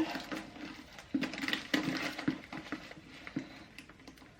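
A handbag being handled: scattered light clicks and taps of its hardware and material, over a faint low steady hum.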